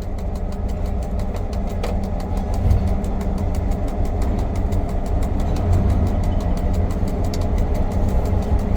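Diesel engine of the ex-V/Line P-class locomotive P20 running with a steady low rumble as it shunts slowly along the yard track.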